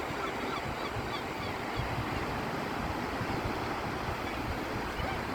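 Steady wash of surf on a beach, with wind on the microphone and faint calls of gulls, mostly in the first part.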